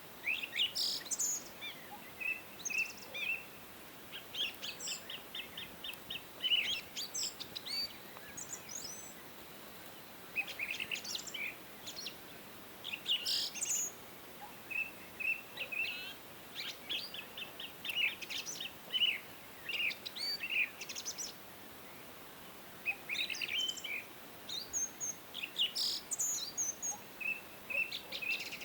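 Several songbirds chirping and singing, with rapid trills and short whistled notes coming in bursts every second or two over a faint steady hiss.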